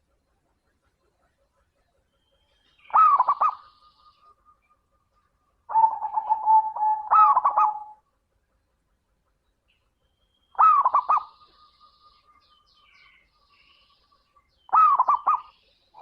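Zebra dove (perkutut) cooing: four short stuttering coo phrases a few seconds apart, the middle one drawn out longer with a steady held note.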